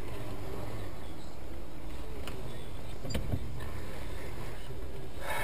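Car engine idling, heard from inside the stationary car as a steady low rumble, with a couple of faint clicks about two and three seconds in.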